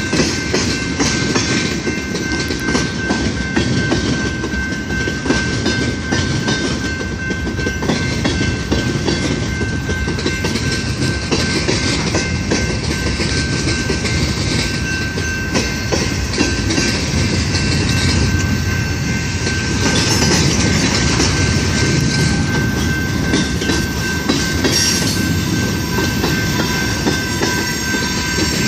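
Freight train cars rolling steadily past, with wheels clattering and clacking over the rails, and a faint steady high-pitched tone running through the rumble.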